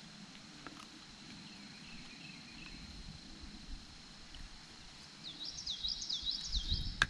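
A songbird sings a fast run of repeated rising-and-falling high notes about five seconds in, after a fainter phrase earlier. Under it runs a steady thin high insect drone, and a sharp click comes near the end.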